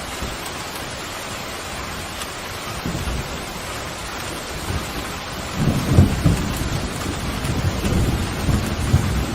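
Steady heavy rain with a roll of thunder that builds about three seconds in and swells into a loud, low rumble past the halfway point.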